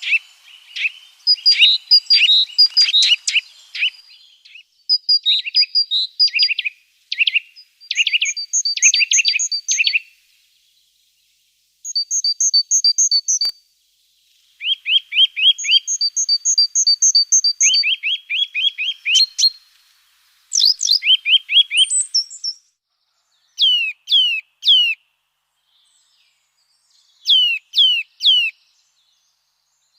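Small songbirds singing and calling: quick runs of repeated chirps and trills, then in the last few seconds a few groups of three quick falling whistles.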